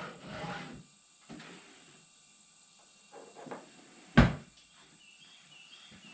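Handling noises in a workshop: a few rustles and soft bumps, then one sharp knock about four seconds in, like something set down hard on a bench. Faint short high chirps near the end.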